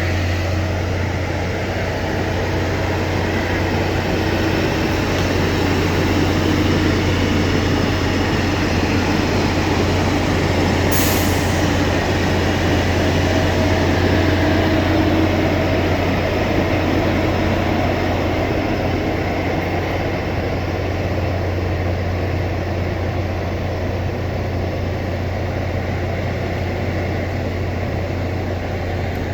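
A train running on the rails, its noise swelling up and then easing off, over a steady low diesel engine drone. One sharp click about eleven seconds in.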